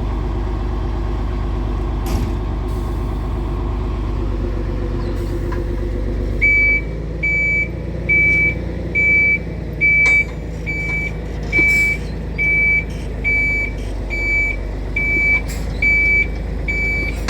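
Diesel truck engine running steadily. About six seconds in, a tow truck's reversing alarm starts beeping, a high beep about once a second, as it backs up.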